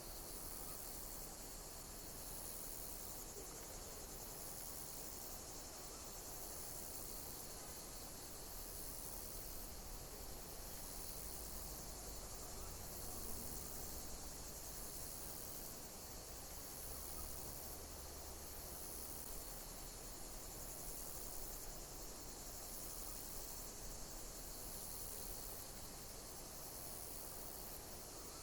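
Insects chirping in a steady high-pitched chorus, with a pulsing chirp that repeats about every two seconds.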